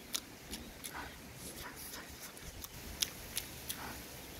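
A person eating catfish: chewing with wet lip smacks and mouth clicks, scattered through, the sharpest few about three seconds in.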